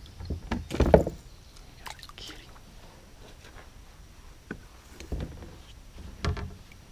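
A few dull knocks and bumps against a small boat's hull, about a second in and twice near the end, with quiet water sounds between.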